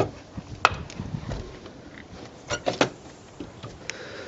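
Front door being opened: a few sharp clicks and knocks from the latch and door, one about a second in and a pair a little past halfway.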